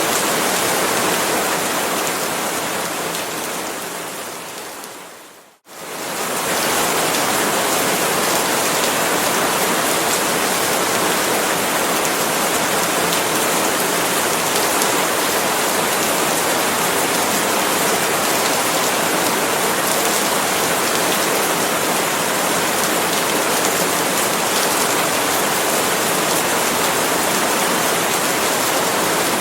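Steady, dense tropical rain falling on palm leaves. It fades out over a few seconds to a moment of silence about five and a half seconds in, then quickly swells back to full and runs on evenly.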